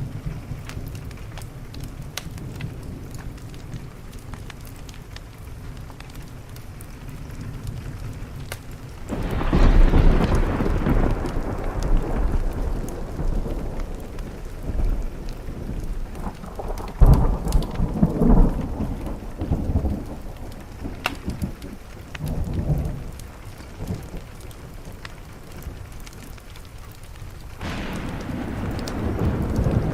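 Steady rain on a window with rolling thunder: a loud rumble breaks out about nine seconds in, more rolls follow through the middle, and another rumble builds near the end.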